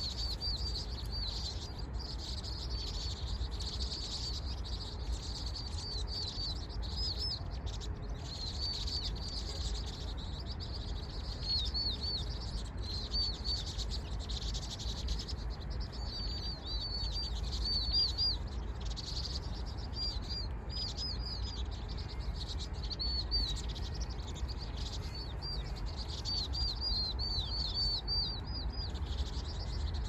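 Small birds chirping: many short, high, arched chirps in quick clusters, over a steady low rumble.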